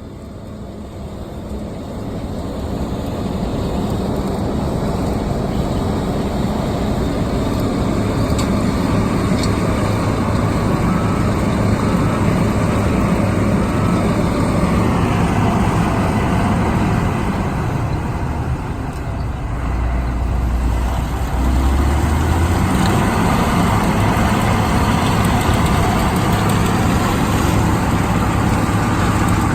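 Combine harvester running under load, a steady engine and machinery noise that grows louder over the first few seconds. About halfway through, its pitch sinks and then climbs back.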